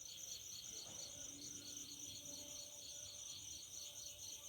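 Crickets chirping faintly, a steady pulsing trill of about four or five pulses a second.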